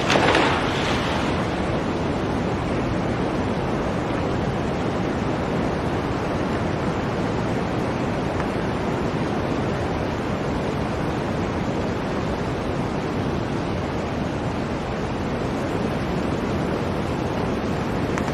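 Blizzard wind blowing as a steady rush, with a stronger gust in the first second.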